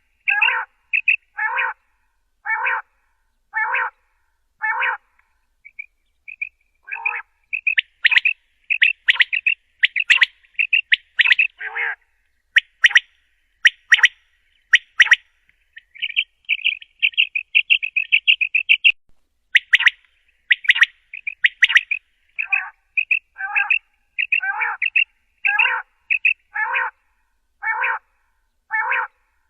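Common quail calling over and over, short calls at about one a second; through the middle the calls crowd together into quick runs of notes with sharp clicks, then settle back to the steady one-a-second rhythm near the end.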